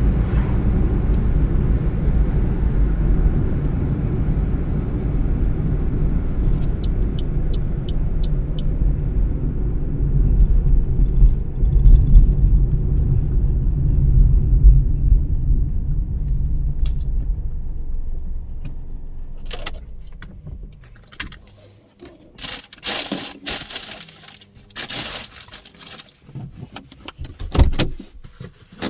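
Low road and engine rumble of a moving car, heard from inside, dying away about twenty seconds in as the car slows to a stop. A run of sharp clicks and rattles follows.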